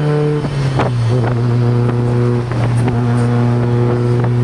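A steady motor drone that steps down in pitch about half a second in and then holds, with several brief knocks or spatters over it.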